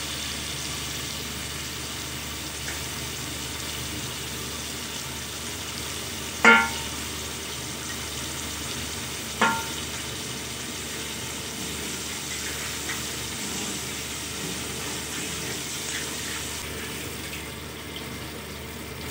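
Ground onion and tomato sizzling in hot oil in an aluminium pressure cooker, stirred with a metal ladle. The ladle strikes the cooker with a sharp metallic clink twice, about six and nine seconds in, and the sizzle grows duller near the end.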